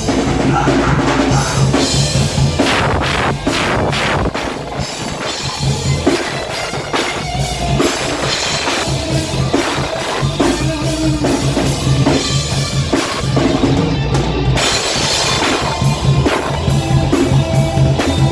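Live heavy metal band playing, with the drum kit prominent: driving bass drum and snare under the band. The cymbals drop out briefly near the end.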